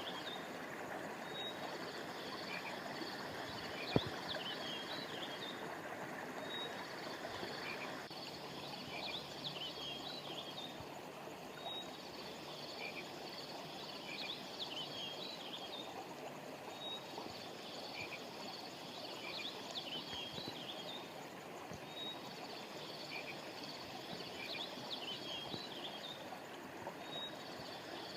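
Steady rush of flowing river water under high chirping calls that come in a pattern repeating about every five and a half seconds. A single sharp click sounds about four seconds in, and the water turns duller about eight seconds in.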